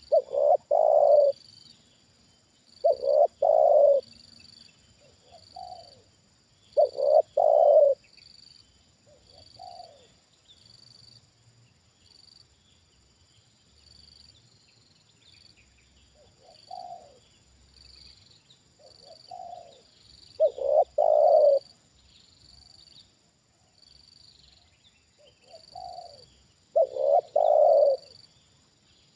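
Spotted dove cooing: repeated coo phrases, each a soft lead note followed by a louder doubled coo. Four loud phrases come in the first eight seconds, then a long pause, then more near the end.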